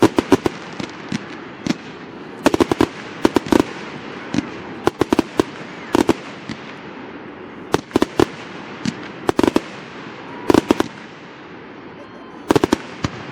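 Fireworks display: aerial shells bursting in irregular clusters of sharp bangs every second or two, often as quick runs of several cracks in a row.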